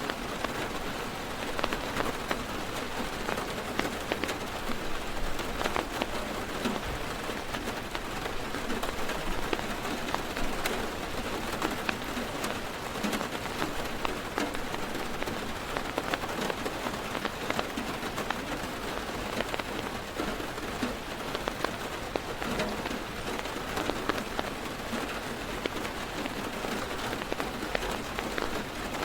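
Heavy rain drumming steadily on a car's roof and windows, heard from inside the car, a dense hiss with many individual drops ticking through it.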